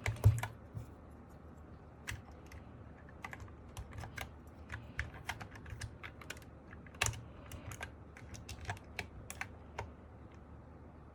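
Typing on an MK870 mechanical keyboard fitted with Sky Panda switches: an irregular run of keystroke clacks, with a loud stroke right at the start, stopping about a second before the end.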